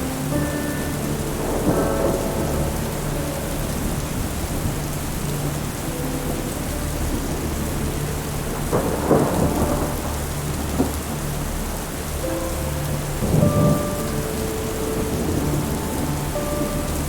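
Steady rain with two rolls of thunder, about nine and thirteen seconds in, over soft sustained music notes and a low drone.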